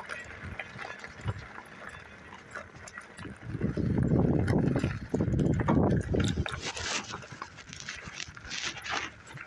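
Rumbling wind and rubbing noise on a phone microphone carried in a shirt pocket during a bicycle ride, loudest for a few seconds in the middle.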